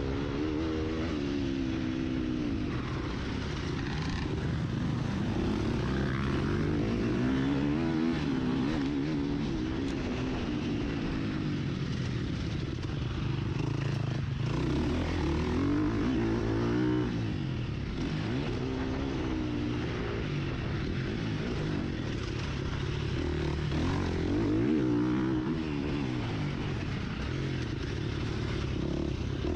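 Husqvarna FC 350 four-stroke motocross engine heard on board, revving up and falling back again and again as the bike accelerates, shifts and brakes around the track.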